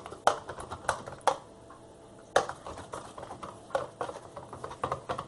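A spoon clinking and tapping against crockery: a string of irregular sharp clicks, some louder than others.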